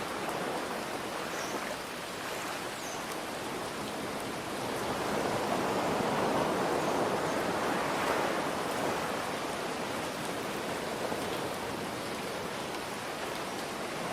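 Steady rain hiss mixed with ocean waves; a wave swells and washes out near the middle.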